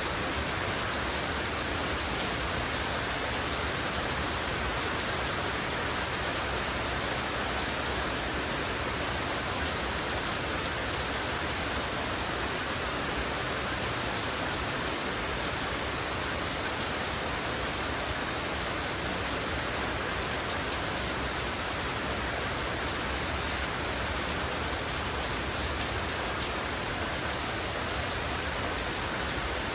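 Heavy rain falling steadily, a dense even hiss of drops on the ground and surfaces in front of a house.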